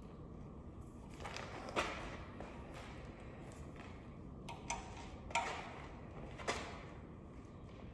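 A few light, scattered clicks and knocks of hand tools being handled on an engine, about six in all, the loudest about two seconds in and again about five seconds in.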